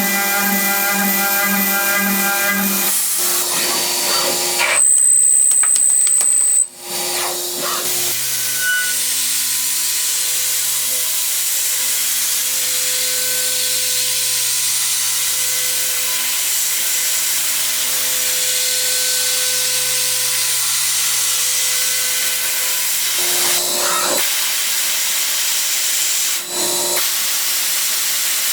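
Machine tools cutting metal: a steady high hiss over a low machine hum, changing abruptly several times as the sound cuts between different machines.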